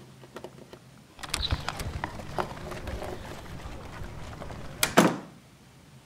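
A run of rustling and small clicks, then a door shutting with one loud bang about five seconds in.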